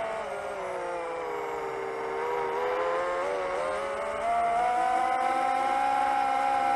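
Motors and propellers of a 7-inch long-range FPV quadcopter whining in flight. The pitch falls over the first two seconds as the throttle drops, then rises again and holds steady, getting louder a little after four seconds.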